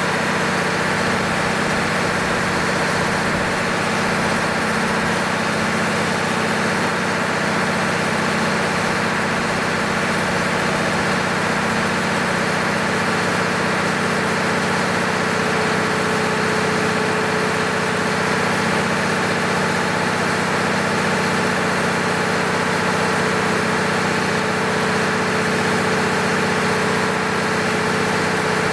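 Rebuilt six-cylinder diesel engine of an MEP-006A 60 kW military generator set running steadily. A steady whine joins in about halfway through.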